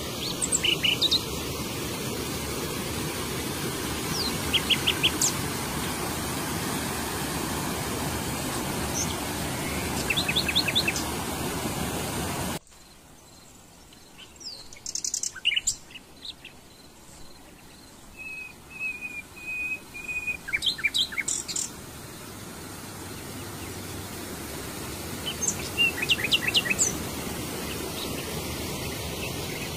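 Small birds chirping in quick runs of three or four short high notes, with a brief trill about two-thirds through, over the steady rush of a forest stream and small waterfalls. The water sound drops away abruptly about a third of the way in, leaving the birds clearer, then builds back later.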